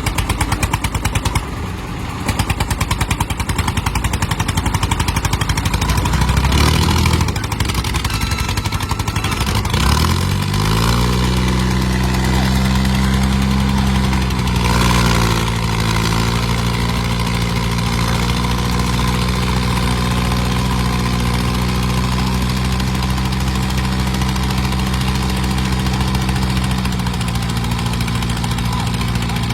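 Diesel tractor engine running: about ten seconds in, its pitch climbs sharply and then holds at high revs, dipping briefly midway and again near the end.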